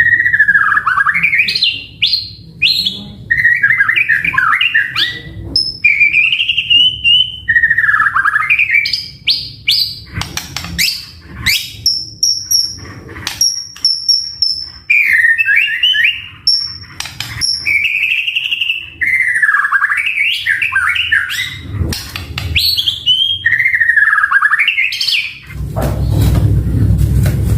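White-rumped shama singing in a long run of varied phrases: swooping down-and-up whistles, sharp clicks and high held notes. About 25 seconds in, a low rumbling noise comes in under the song.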